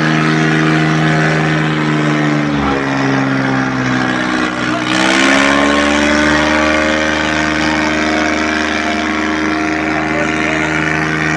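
Tractor diesel engine working hard under load. Its pitch sags about two and a half seconds in as the engine is pulled down, then climbs back and holds steady from about five seconds in.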